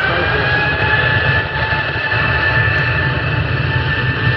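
Jet airliner's engines running: a steady high whine over a low rumble, the whine rising slightly at the start and then holding.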